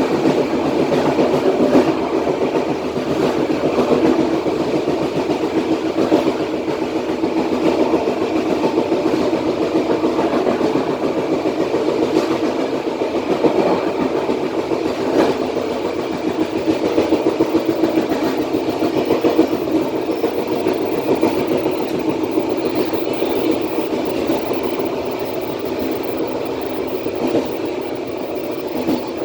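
Passenger train coach running along the track, heard from the rear of the train: a steady rumble of wheels on rail with a few scattered clicks.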